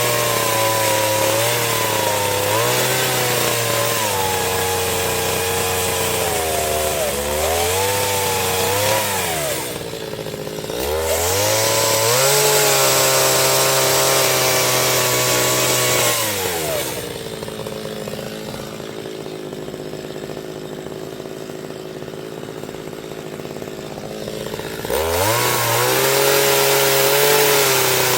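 Chainsaw cutting wood, its engine pitch sagging and recovering under load. Past the middle it drops back to a lower, quieter idle for several seconds, then revs up again and cuts near the end.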